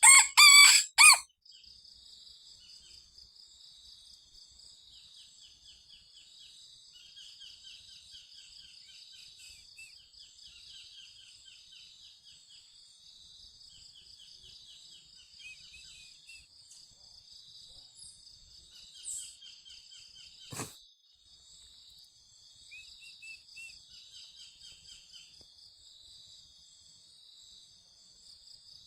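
Outdoor dawn ambience: a steady high insect chorus with repeated short trilling calls from small birds. A loud, brief fowl call opens it, and a single sharp click comes about two-thirds of the way through.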